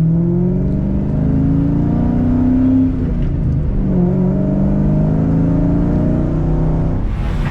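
Car engine revving, its pitch rising and falling several times, with a dip about three and a half seconds in. Music with guitar starts near the end.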